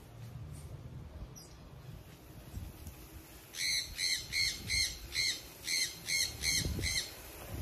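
A bird calling: a run of about eight short, harsh, squawking notes, two or three a second, starting about halfway through.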